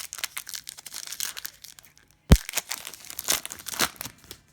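A trading card pack wrapper being torn open and crinkled by hand, with a run of crackling rustles. A single sharp thump, the loudest sound, comes a little past halfway.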